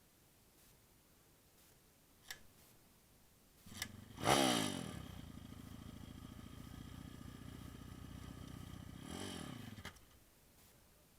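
Pit bike engine started after two clicks. It revs once and drops to a steady idle, then is blipped briefly near the end and cuts off suddenly.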